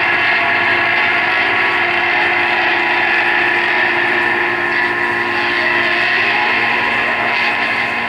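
A live band's amplified instruments holding a loud, steady drone: layered sustained tones over a dense wash of noise, with no beat, easing slightly near the end.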